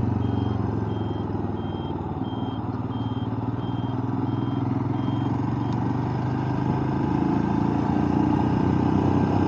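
Motorcycle engine running steadily while riding, a little louder near the end. A high, thin beep repeats about twice a second and stops about five and a half seconds in.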